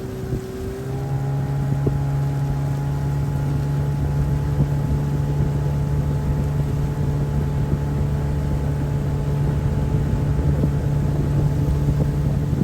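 Small boat motor running steadily, speeding up about a second in and then holding an even pitch.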